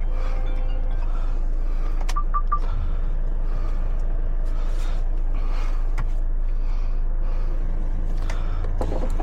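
Heavy truck's diesel engine running with a steady low drone, heard from inside the cab, with scattered light clicks and three short high beeps about two seconds in.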